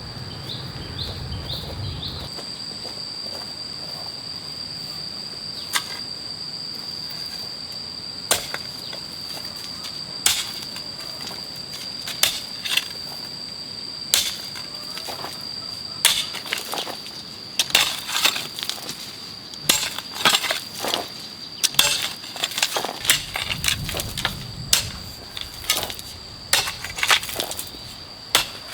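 A hoe chopping into soil: single strikes every couple of seconds at first, then coming faster and in clusters from about halfway on. A steady high-pitched insect drone runs underneath.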